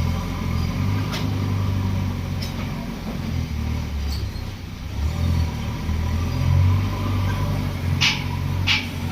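Heavy diesel engine running steadily with a low drone, with a few faint knocks and two short, sharp hissing bursts near the end.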